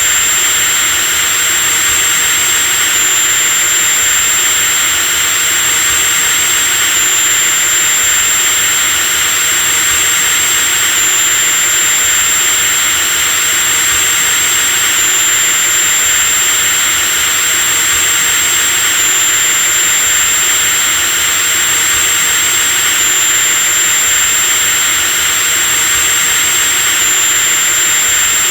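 Electric drill motor running continuously at a steady speed: a high, hissing motor noise with a thin high-pitched whine over it, unchanging throughout.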